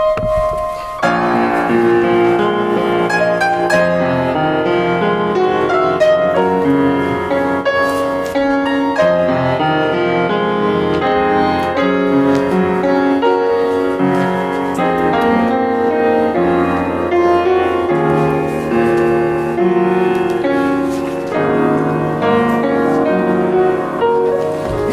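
Instrumental piano music: chords and a melody line, with no singing.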